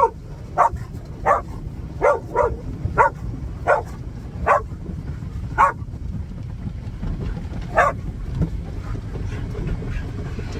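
A dog barking in short, sharp bursts, about ten barks in the first eight seconds and then stopping; the dog is agitated by the car wash. A steady low rumble runs underneath.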